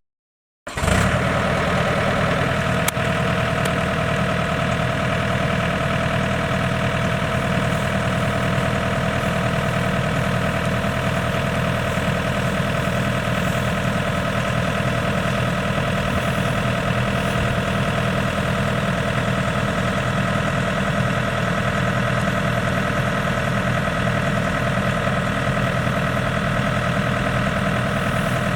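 A heavy farm-machine diesel engine running steadily at a constant speed, starting just under a second in.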